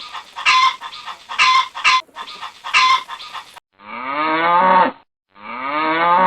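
Domestic fowl calling in a few short repeated calls, then a cow mooing twice in long calls that rise and then fall in pitch.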